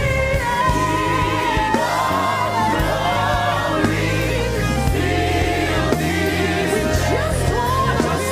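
Live gospel worship music: several voices singing a slow worship song over a band with a steady bass line.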